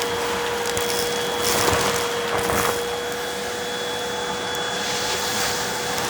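Vacuum cleaner running with a steady motor whine over the rush of suction, with scattered crackles as it picks up crunchy debris.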